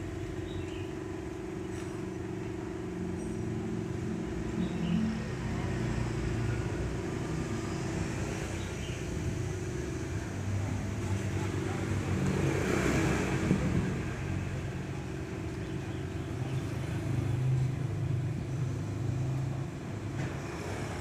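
Motor vehicle engines running steadily in street traffic, with a vehicle passing by, swelling and fading, about halfway through.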